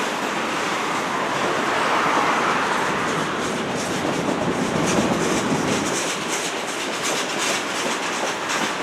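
Freight train cars rolling past on the rails with a steady rumble. From about halfway through, the wheels give a rapid, irregular clicking over rail joints.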